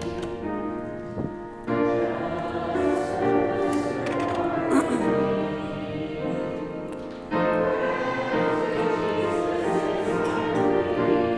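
Church congregation singing a hymn in long held phrases, with a new line starting about two seconds in and again past the middle.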